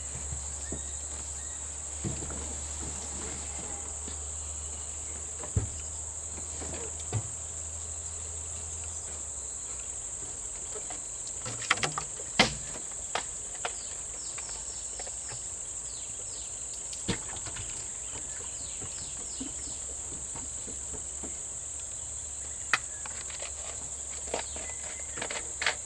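Steady high-pitched chorus of insects, with a low hum underneath that stops about nine seconds in and a few scattered sharp knocks.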